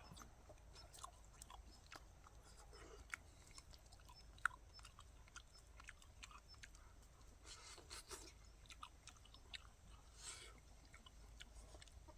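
Faint chewing and small clicks of people eating boiled chicken, with a couple of brief soft rustles about two-thirds and five-sixths of the way through.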